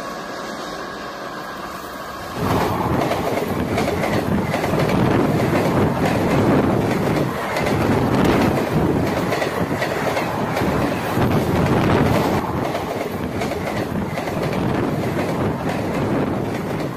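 A train passing on the line: a dense rumble of wheels on rail with rapid clicking over the rail joints, which comes in suddenly loud about two seconds in and stays loud.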